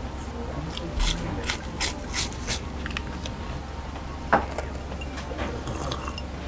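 Close-miked crunching and chewing of deep-fried breaded shrimp: a quick run of crisp crackles in the first half, then one sharp click a little past the middle, over a low steady hum.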